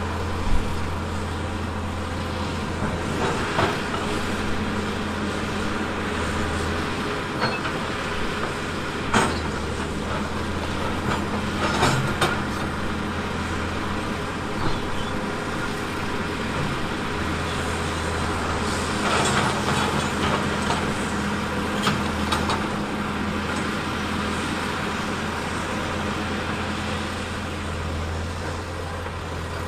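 Diesel engine of a heavy earthmoving machine running steadily while it works, with sharp knocks and clanks of metal and rock several times.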